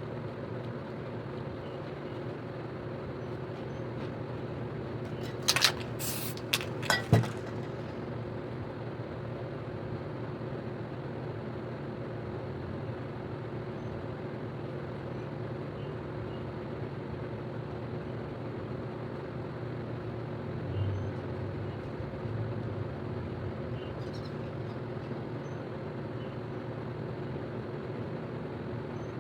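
Steady droning hum throughout, with a few short, loud spray-paint can hisses clustered about five to seven seconds in.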